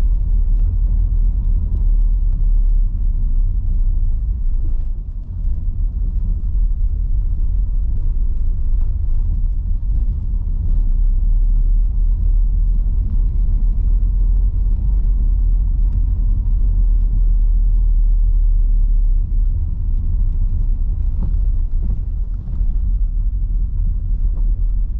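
Steady low rumble of tyre and road noise from an electric car driving on wet streets, with faint scattered ticks of rain on the car.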